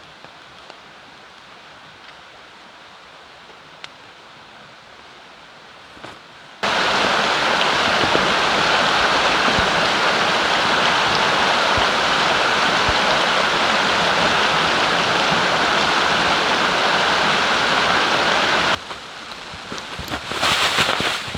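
Steady rushing of a flowing river. It is moderate for the first six or so seconds, then abruptly much louder for about twelve seconds, then abruptly softer again near the end.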